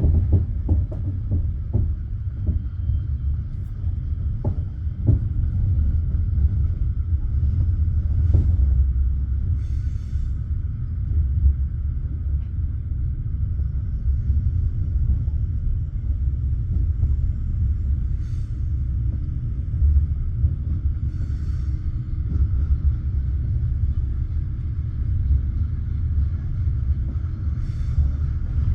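Passenger train carriage heard from inside: a steady low rumble with irregular wheel knocks over rail joints and points in the first eight seconds or so. Several brief hissing bursts come later.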